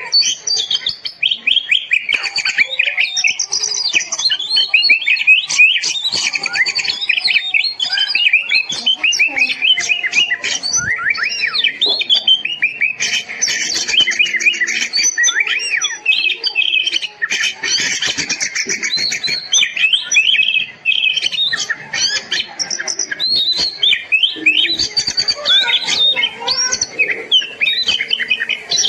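Oriental magpie-robin (kacer) singing a fast, varied song of whistles and chirps without a break.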